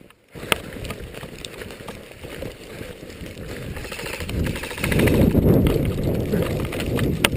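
Low rumbling noise of movement on the microphone, loudest about two-thirds of the way through, with a fast rattle about halfway like an airsoft gun firing on full auto, and a few sharp clicks, two of them close together near the end.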